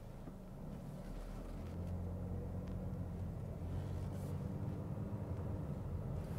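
Low engine and road rumble heard inside the cabin of a 2022 Toyota Corolla Cross as it pulls away and drives off slowly, its 2.0-litre four-cylinder running under light load. The rumble grows louder about a second in as the car gathers speed.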